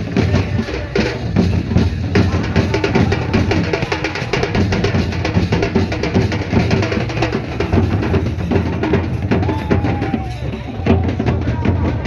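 Loud, fast drumming with many drums beating together without a break, with a short wavering tone about ten seconds in.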